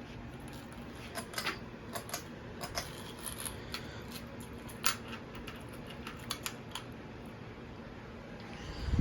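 Hampton Bay Rothley II ceiling fan running on low speed: a faint steady hum under a scatter of light, irregular clicks and ticks.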